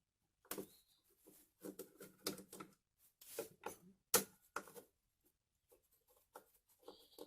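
Irregular light clicks and knocks of hand work on a belt sander's housing as its screws are taken out.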